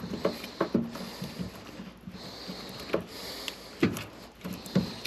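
Hands working wiring inside an HVAC air handler cabinet: irregular light taps, clicks and rustles from handling wires and tape, over a faint steady hiss.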